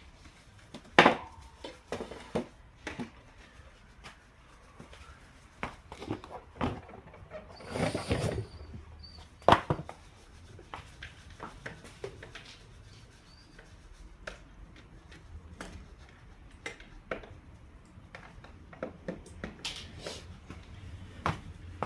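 Hand tools and wheel parts being handled during a motorcycle rear tyre change: scattered knocks, clinks and taps, with a sharp knock about a second in, a short scraping rub around eight seconds, and another sharp knock near ten seconds.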